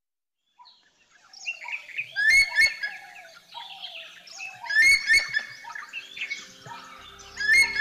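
Birds calling and chirping, with a loud burst of overlapping rapid chirps that comes back three times, about every two and a half seconds.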